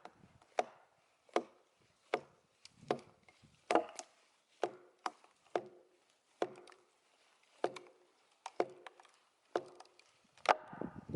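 Repeated hammer blows driving wooden wedges into a split oak log, a sharp knock about every three-quarters of a second, with the hardest strike near the end.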